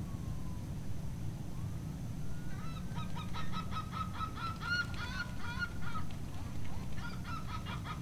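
A waterbird calling in two runs of rapid, evenly repeated short notes, about six a second. The first run lasts about three seconds, and the second starts near the end. A steady low rumble lies underneath.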